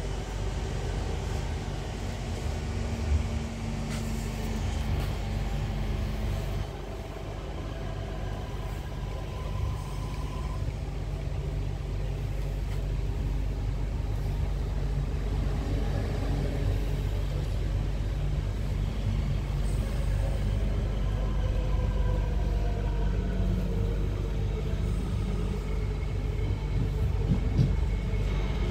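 Class 323 electric multiple unit heard from inside the passenger saloon while running: a steady low rumble, with faint tones that slowly slide up and down in pitch.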